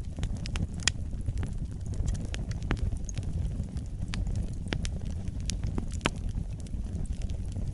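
Wood fire burning in a fireplace: a steady low rumble of flames with frequent, irregular sharp crackles and pops, the loudest about a second in and another near the end.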